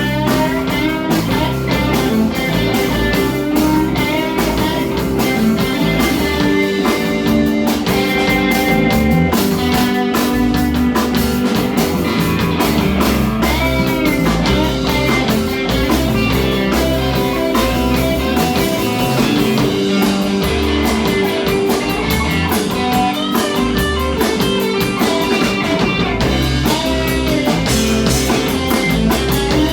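A rock band playing an instrumental passage with guitar and a drum kit, no singing.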